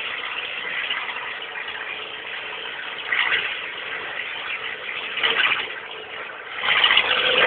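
Peugeot 106 1.1-litre four-cylinder petrol engine running with no exhaust system fitted, heard from inside the car while driving. The open exhaust swells briefly twice, then gets sharply louder near the end as the engine is worked harder.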